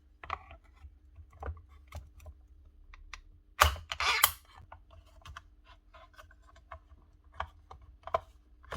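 Small irregular plastic clicks and taps of wire connectors being pulled off a shop vacuum's old control board, with a sharper click about three and a half seconds in followed by a short scrape.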